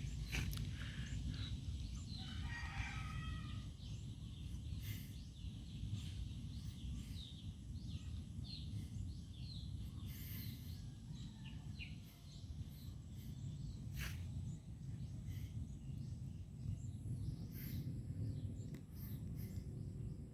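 Farmyard ambience: small birds chirping throughout over a steady low rumble, with a rooster crowing once about two seconds in.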